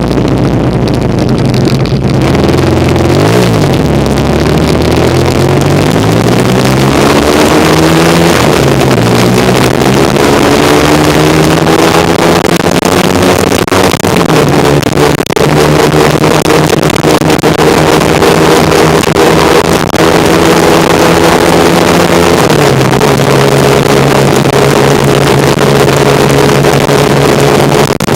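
1975 Kawasaki KZ400 parallel-twin engine under way, revs climbing and dropping back a few times as it pulls through the gears, then holding steady at cruise. Heavy wind rush on the microphone.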